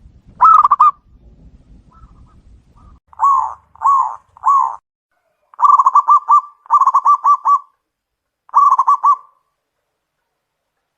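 Zebra dove (perkutut) cooing. One call comes about half a second in, then three single coos from about three to four and a half seconds, then three runs of quick staccato coos.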